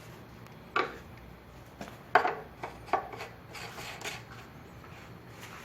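Several short knocks, clicks and scrapes of hard parts being handled, the loudest about two seconds in: the oil filler cap being put back and closed on a truck engine after an oil change.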